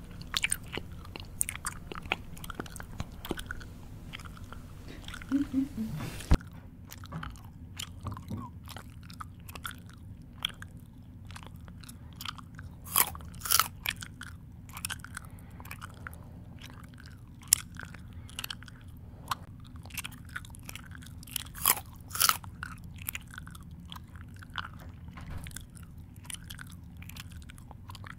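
A person chewing food close to the microphone: irregular crunches and wet mouth smacks at an uneven pace, over a steady low hum.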